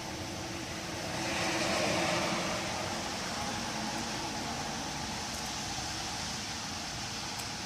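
Wind blowing through trees, a steady rushing that swells in a gust about a second in and then settles back.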